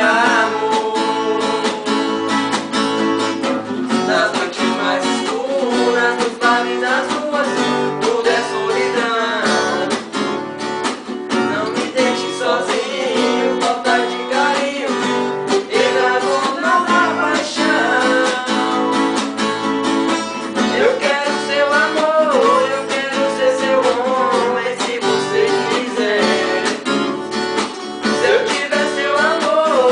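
Acoustic guitar playing a solo: a lead melody with sliding, bending notes over strummed chords.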